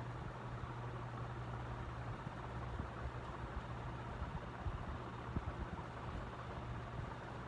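Hunter Studio Series ceiling fan running, with a steady motor hum and the rush of moving air. Irregular low thumps come in from about three seconds in.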